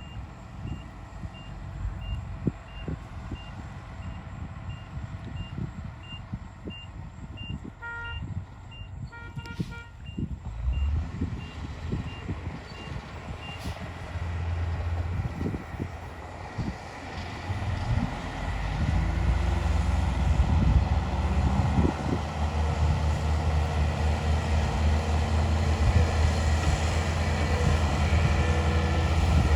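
A heavy machine's reversing alarm beeping about twice a second, with two short horn toots about eight and nine and a half seconds in. The alarm stops about halfway through, and a heavy diesel engine grows louder and runs steadily under load to the end.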